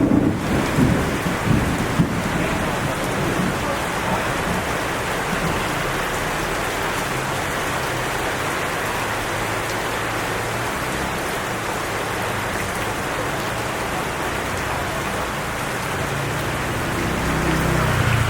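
Steady rain pouring down, an even hiss, with a few knocks in the first couple of seconds and a low rumble building near the end.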